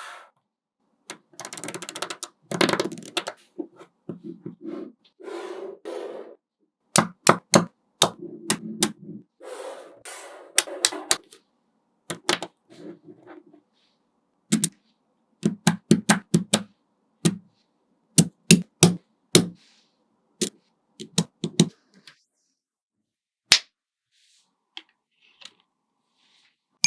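Small magnetic balls snapping together with sharp clicks, often several in quick succession, with short stretches of rattling as the balls are shifted against each other; the clicks thin out to a few single ones near the end.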